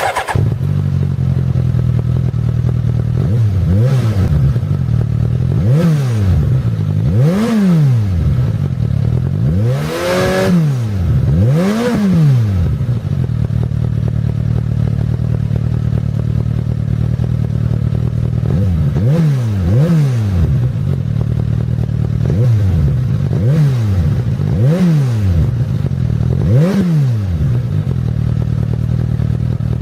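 Suzuki GSX-S1000's inline-four engine idling with repeated quick throttle blips, each a short rise and fall in revs, about ten in all, with a stretch of steady idle in the middle.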